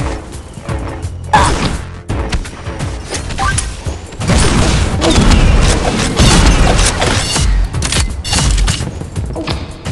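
Fireworks going off: a rapid string of bangs and crackles, densest and loudest from about four seconds in to about eight.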